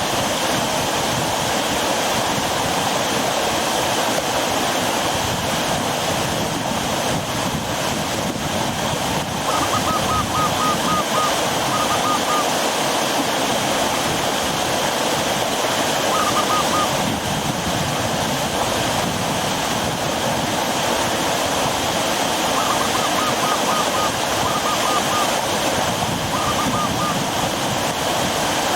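River water rushing steadily below a waterfall, a full, even rush. A few times a bird calls over it in short runs of quick, high notes.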